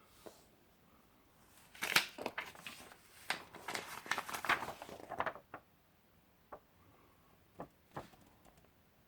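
Paper pages of an instruction booklet rustling and crinkling as they are handled and turned, for about three seconds, then a few single clicks.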